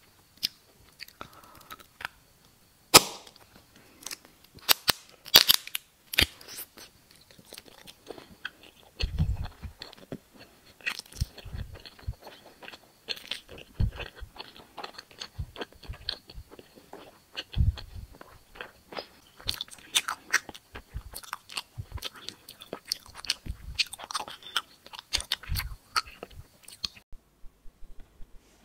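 Close-miked chewing and biting of filled gummy balls, with many sharp wet clicks and pops and a loud snap about three seconds in. The sound cuts out about a second before the end.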